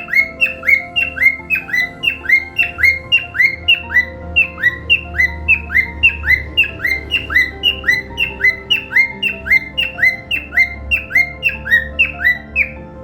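Cockatiel calling in a fast, even run of short rising chirps, about three or four a second, which stop just before the end. Background music with long held notes plays underneath.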